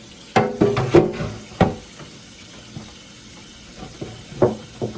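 Hard items clattering as they are handled and set down: four quick knocks with short ringing in the first two seconds, then one more near the end.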